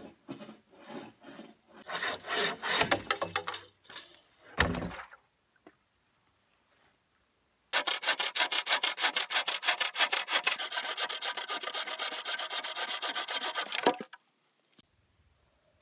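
A hand tool scraping and rubbing on wood: uneven strokes at first, then, after a short pause, a run of rapid, even strokes for about six seconds that stops abruptly.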